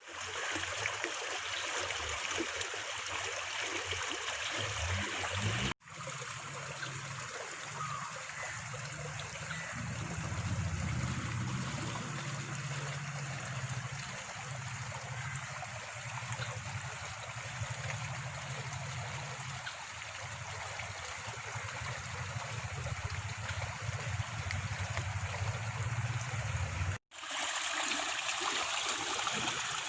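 Water flowing in a stream, a steady rush with trickling, broken by two split-second dropouts where the recording cuts, about six seconds in and near the end.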